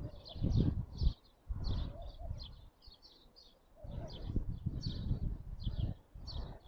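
Small birds chirping repeatedly, two or three short high chirps a second, over irregular bursts of low rumbling noise.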